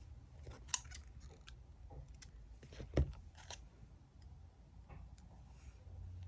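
Diary-decorating stationery being handled on a desk: scattered small clicks and taps, a sharp click about a second in, and a duller, louder thump about halfway through.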